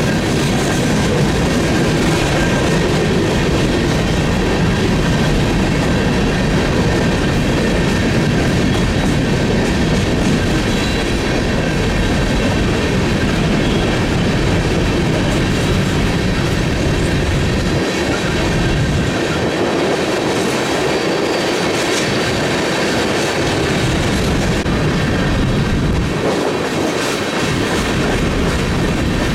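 Freight train rolling past, its cars clattering steadily over the rails, with a faint high steady squeal from the wheels. The deep rumble drops away briefly a few times in the second half as the cars go by.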